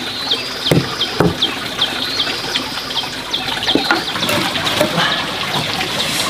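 A small bird singing phrases of quick, high, descending notes, about five a second, over a steady trickle of running water, with a few sharp knocks.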